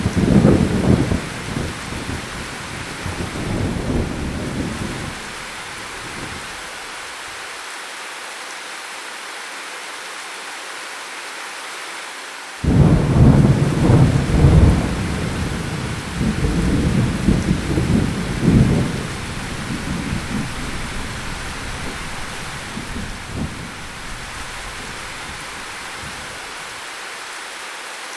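Steady rain with two rolls of thunder: the first cracks right at the start and rumbles away over about six seconds, the second breaks suddenly about twelve seconds in and rolls on for several seconds before fading out.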